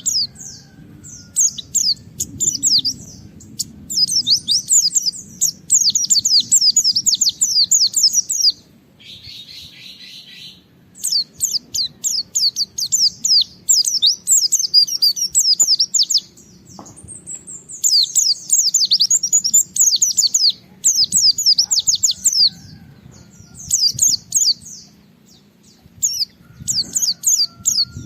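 A white-eye (pleci) singing hard in bouts of fast, high twittering phrases a few seconds long, with short pauses between them: a challenge song at a rival. A harsher, scratchy note comes about nine seconds in, and a long sliding whistle comes about halfway through.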